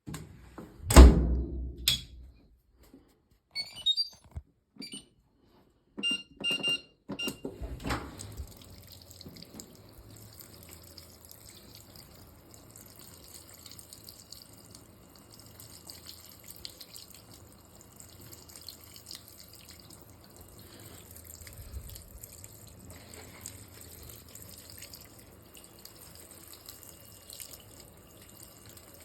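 A loud thump, then a few short beeps and clicks. From about eight seconds in, a Fisher & Paykel GW712 top-loading washing machine fills with water, a steady rushing hiss as the water runs into the drum at the start of the wash.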